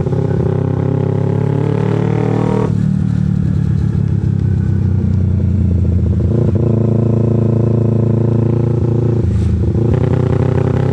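Carbureted Kawasaki Ninja 250's parallel-twin engine running while riding, its note shifting in pitch about three seconds in and again a little past halfway.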